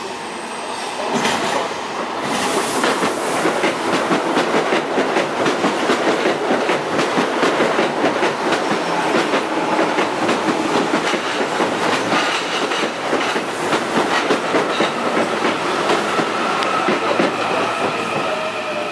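Electric commuter train passing close by at speed, its wheels clattering over rail joints and points in a rapid, continuous run of clicks that builds about a second in. A faint steady whine comes in near the end.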